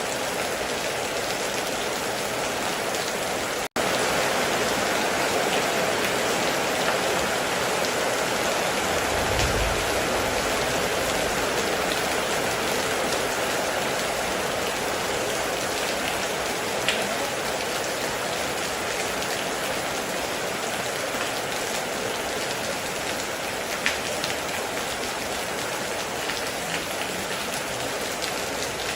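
Heavy rain falling steadily, with a few sharper drop ticks. The sound cuts out for an instant about four seconds in, and there is a short low thump near ten seconds.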